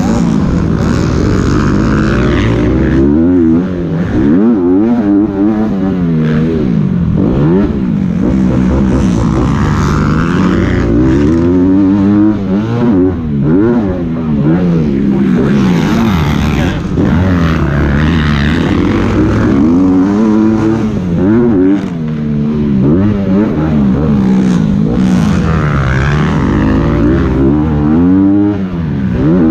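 Motocross dirt bike engine revving hard, its pitch climbing and dropping again and again every couple of seconds as the rider accelerates and backs off through the gears.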